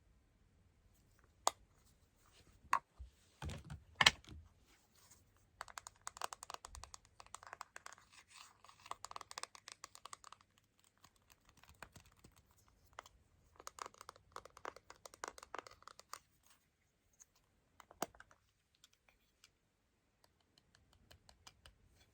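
Close-up handling sounds of hands working on a smartphone with craft materials: a few sharp taps and clicks, and two stretches of rapid fine crackling and scratching, like peeling or tearing something thin.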